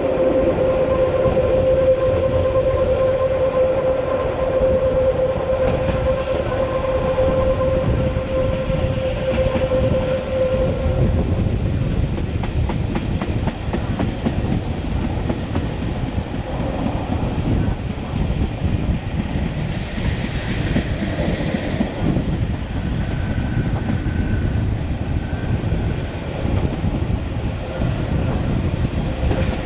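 Matterhorn Gotthard Bahn train hauled by an HGe 4/4 locomotive, running along the track, heard aboard: continuous rumble and rail clatter. A steady high whine for the first ten seconds or so fades out, then comes back near the end.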